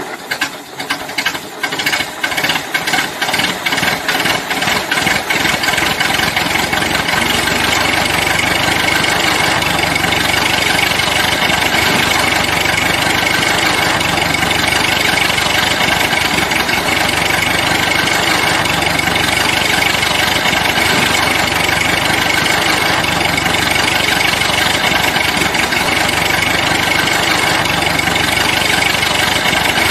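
An engine starting: separate knocks come faster over the first few seconds, then it settles into steady, even running.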